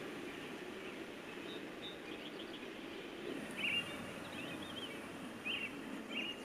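Birds chirping in short, scattered calls over a steady low outdoor background noise; the strongest chirps come about halfway through and near the end.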